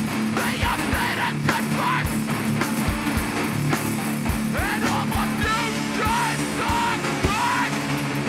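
Hardcore band playing live: heavily distorted guitars and bass over hard-hit drums.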